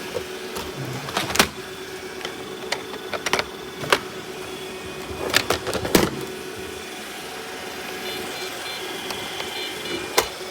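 Robot vacuum cleaner running with a steady motor hum, punctuated by several sharp clicks and knocks.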